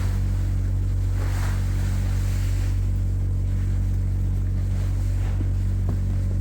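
A farm machine's engine running steadily at idle, a constant low hum, with a little wind noise over it.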